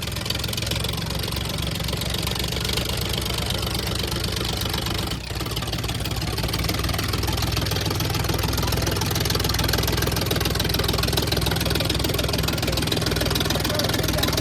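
Tractor diesel engine running steadily at high revs, with a brief dip about five seconds in.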